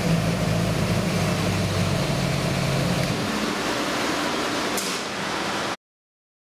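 Chevy 383 small-block V8 with Inglese stack fuel injection running with a steady low note. About three seconds in, the engine note drops away and leaves an even hiss, and near the end the sound cuts off abruptly.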